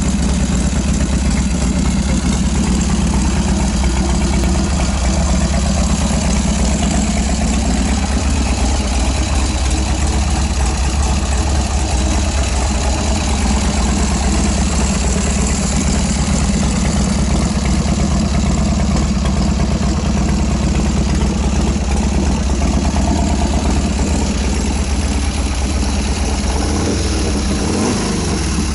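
Harley-Davidson Sportster's air-cooled V-twin engine idling steadily, its pitch shifting briefly near the end.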